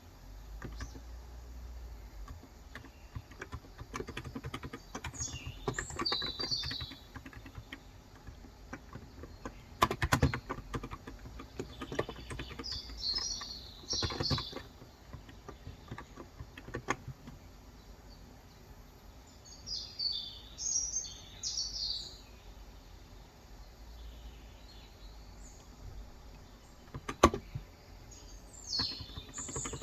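Typing on a Cox Endeavour 35g electrostatic-capacitive tenkeyless keyboard: a steady run of soft key clicks, with a few louder strokes about ten seconds in and near the end. Birds chirp in short bursts every several seconds.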